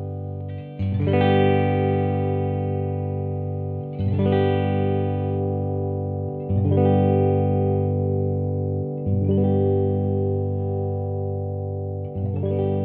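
1982 Vantage VE-550 electric guitar, played clean, strumming chords. A new chord is struck about every two and a half to three seconds, five in all, and each is left to ring until the next.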